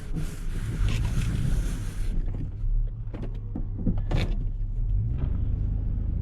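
Plow truck's engine running steadily at low speed, with a loud hiss for the first two seconds that cuts off suddenly, then a few short knocks and scrapes.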